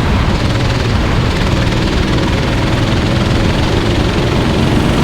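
Go-kart engines running steadily on the race track, a constant drone with no single pass standing out.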